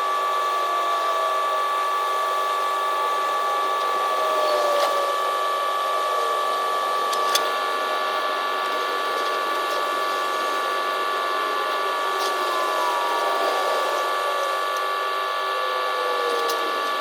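Electric winch motor running with a steady, high whine, with a sharp click about seven seconds in.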